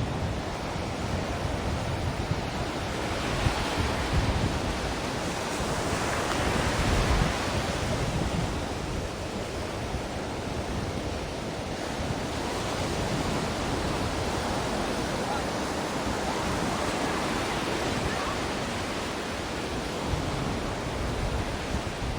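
Ocean surf: a continuous wash of breaking waves that slowly swells and eases over several seconds.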